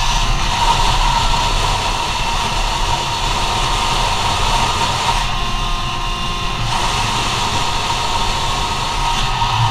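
Go-Ped scooter's CR70 engine running hard at speed, a steady high buzz over a rushing hiss, easing for a moment about halfway through before picking up again.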